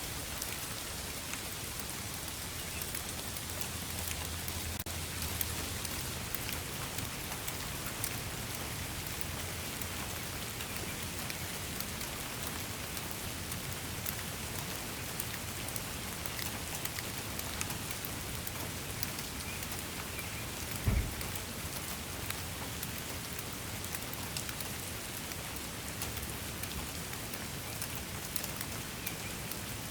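Steady rain falling, an even hiss with many fine, close drop ticks. About two-thirds through there is a single brief low thump.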